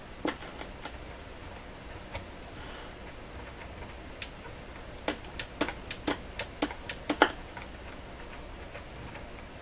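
Sharp clicks and taps of hard plastic and tools being handled on a workbench: a few scattered clicks, then a quick run of about ten clicks a couple of seconds before the end.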